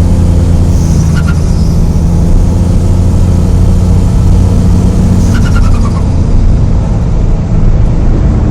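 Turbocharged car engine running, with two short bursts of turbo flutter, a rapid chattering chirp about a second in and again about five seconds in. Flutter is compressor surge: boost pressure pushing back through the turbo when the throttle closes.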